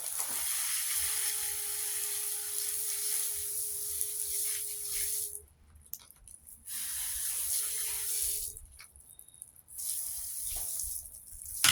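Garden hose spraying water onto a box fan's guard, in three spells with short pauses between them, and a faint steady tone under the first spell.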